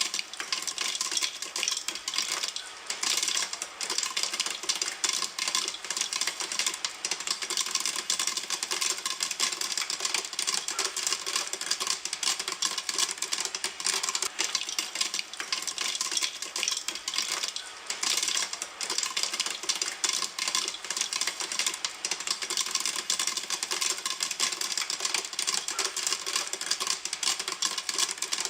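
Popcorn popping in a pan, a dense, continuous crackle of many small pops with two brief lulls.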